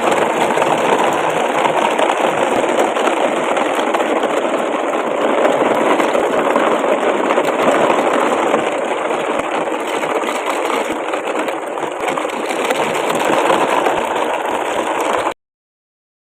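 A small motor running steadily with a dense whirring noise, cutting off suddenly about a second before the end.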